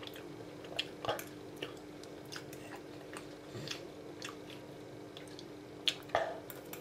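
A person chewing a mouthful of steak pie and chips, with scattered small wet mouth clicks and smacks, the loudest about six seconds in, over a steady low hum.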